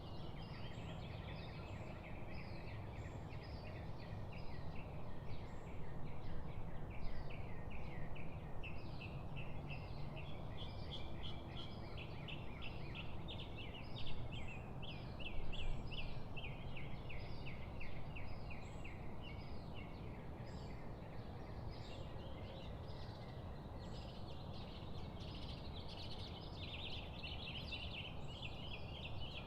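A chorus of songbirds chirping in fast, dense trills over a steady low rushing background.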